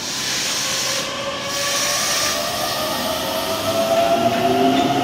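Keikyu 1500 series electric train pulling out of the station: its traction motors whine with several tones climbing steadily in pitch and getting louder as it accelerates, over the rumble of the wheels on the rails.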